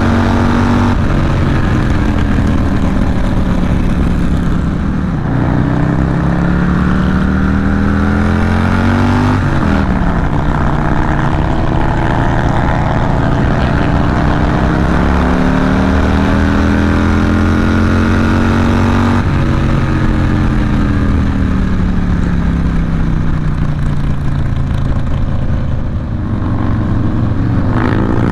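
Harley-Davidson Milwaukee-Eight 114 V-twin with a Cobra El Diablo 2-into-1 exhaust, heard from the rider's seat at road speed. The engine note climbs and then drops sharply at about five and ten seconds in as the gears are shifted up. It climbs slowly again, then falls away as the throttle is eased, and rises once more near the end.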